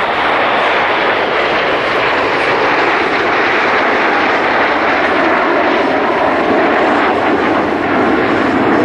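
Turbojet noise from the Iskra team's PZL TS-11 Iskra jet trainers flying by. It is a loud, steady jet rush that swells up suddenly at the start and holds.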